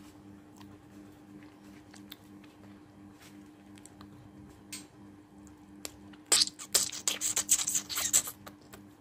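A woman hawking up phlegm and spitting: a quick run of raspy, sputtering throat and mouth noises starting about six seconds in and lasting about two seconds. Before it, only a steady low electrical hum and a few faint clicks.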